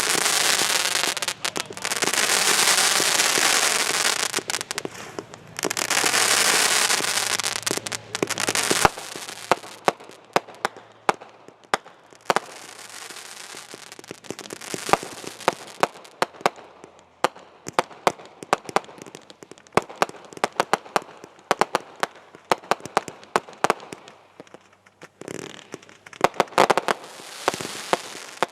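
Consumer fireworks going off: a loud, dense hissing spray for the first nine seconds or so, briefly dropping twice, then giving way to rapid, irregular crackling pops and sharp cracks.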